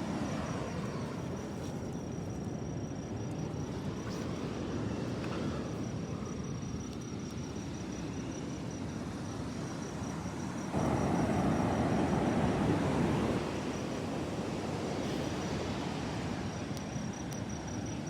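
Ocean surf washing up the beach, a steady rushing that swells and eases, growing louder for a couple of seconds past the middle. A faint high pulsing tone runs underneath.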